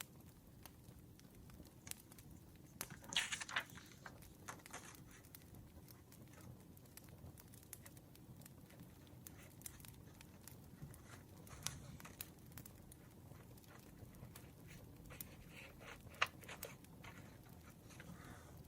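Faint campfire crackling throughout, with scattered louder rustles and taps of paper and stationery being handled, the strongest about three, twelve and sixteen seconds in.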